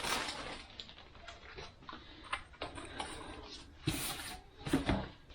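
Transmission clutch discs and steel plates being handled on a workbench: a run of light clicks and rustles, with louder scraping rustles about four seconds in and again near five.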